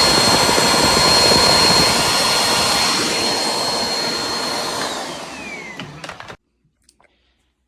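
Vacuum cleaner motor running with a steady high whine, then switched off: about five seconds in the whine falls in pitch as the motor spins down and the sound fades. The sound cuts off abruptly just after six seconds.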